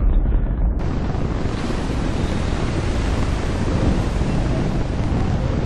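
Steady, dense roar of a rocket launch, heavy in the low end with a hiss on top, without a break. The sound becomes abruptly brighter about a second in.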